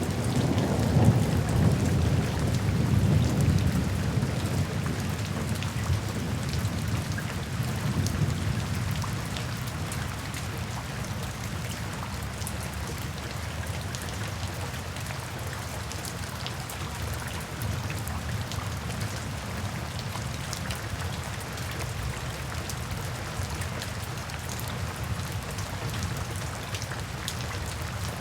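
Steady rain falling, with scattered drop ticks, and a low rumble of thunder in the first several seconds that dies away, leaving the rain alone.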